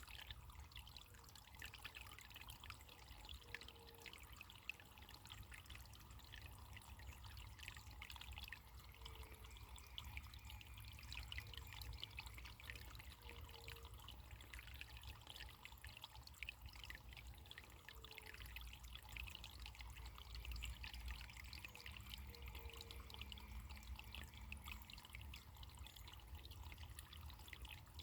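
Faint running water trickling steadily, a soft flickering splash over a low rumble.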